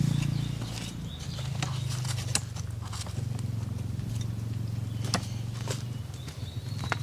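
A motor running steadily with a low hum, with scattered sharp clicks and knocks on top, the clearest about two and five seconds in.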